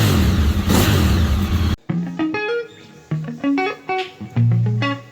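A racing motorcycle engine at high revs, loud and shifting in pitch, cut off abruptly a little under two seconds in. Electric guitar music follows: separate plucked notes over a few low bass notes.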